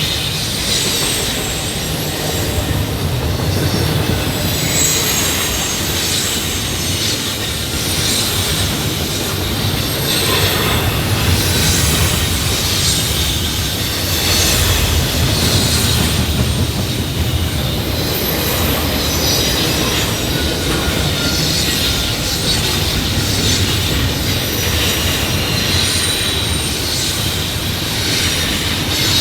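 Railroad cars rolling steadily past at close range, wheels rumbling over the rail joints, with high, wavering wheel-flange squeal.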